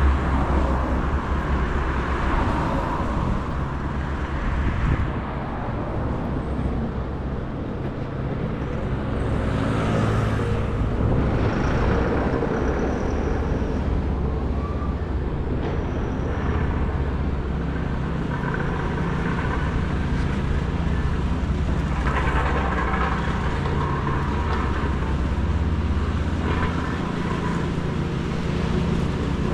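City street ambience: road traffic passing, over a steady deep rumble, with vehicle sounds swelling and fading over several seconds.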